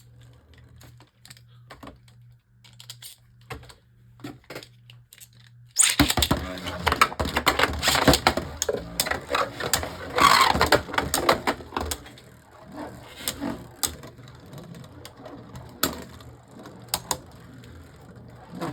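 A few plastic clicks as the Beyblades are readied. About six seconds in, Beyblade Burst tops (Harmony Pegasus against Left Astros) are launched into the plastic stadium and rattle and clash loudly for several seconds. They then spin on more quietly with occasional knocks until one stops spinning, a survivor finish.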